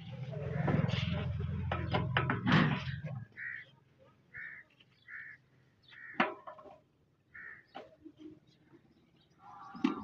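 A low rumble with clattering knocks for about three seconds, then a bird calling over and over, short high calls less than a second apart. A single sharp knock about six seconds in.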